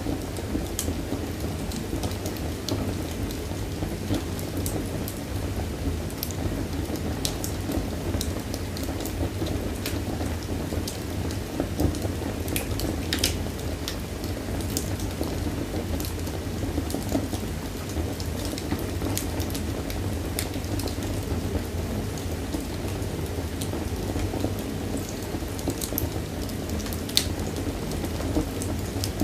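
Wood fire burning in a fireplace, crackling, with irregular sharp pops over a steady low rumble of the flames; a louder pop about 13 seconds in and another near the end.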